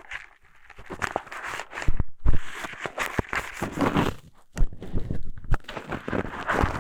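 Eyeglasses rubbed and scraped against a binaural microphone's ear, as a mock ear cleaning: irregular scratching, rustling and small clicks, softer for about the first second.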